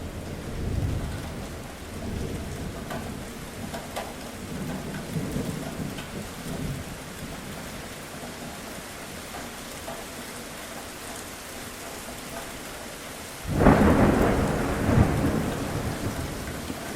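Steady rain with low, rolling thunder in the first several seconds. About three-quarters of the way through, a sudden loud thunderclap breaks in and rumbles away over a few seconds.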